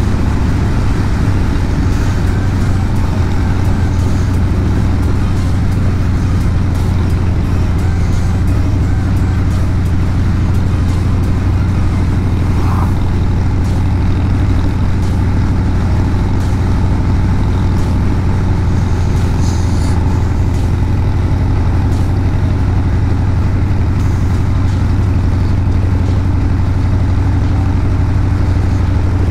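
Harley-Davidson Street Bob's Milwaukee-Eight 114 V-twin running at a steady cruise, heard from the rider's seat, with its deep low engine note holding level and no throttle changes.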